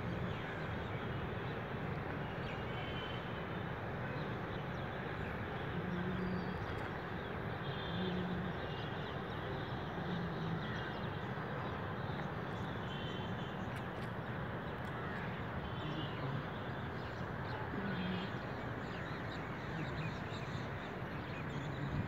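Steady outdoor background noise with scattered short bird calls every few seconds, crow-like caws among them.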